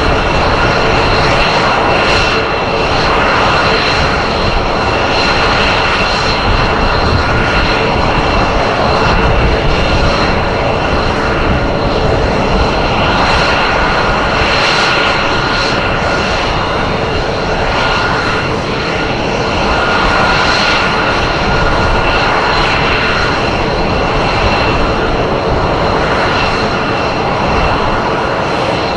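Loud, steady aircraft engine noise with a constant whine over it, holding level without a clear rise or fall.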